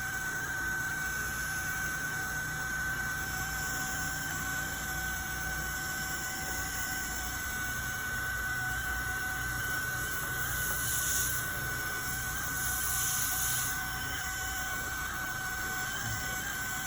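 Carpet cleaning machine running with a steady motor whine and a low rumble, with two short louder hisses about eleven and thirteen seconds in.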